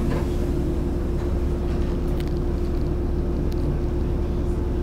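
Running sound heard inside the carriage of a JNR-era resistor-controlled electric train, which the uploader takes to be a 413 series. It is a steady low rumble with a constant hum on top and a few faint clicks.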